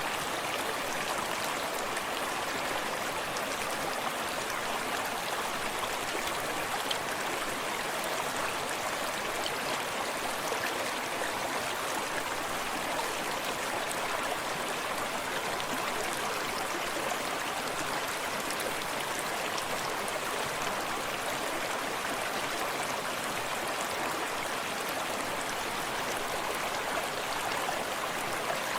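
Small forest stream running steadily, with gentle water lapping close by and a distant splashing of water over a small cascade.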